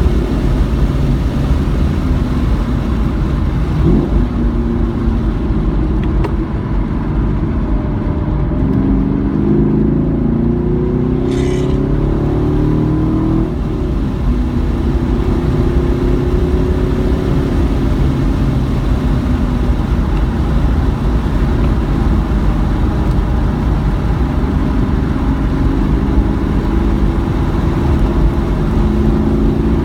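Car engine heard from onboard while lapping a race track, its pitch climbing in steps through the gears and dropping back, over a heavy low rumble of road and wind noise.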